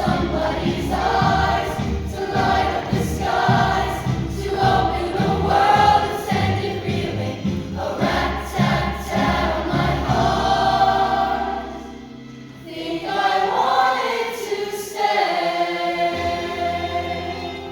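Choir singing with musical accompaniment. About twelve seconds in, it drops to a brief soft passage, then swells back to full voice.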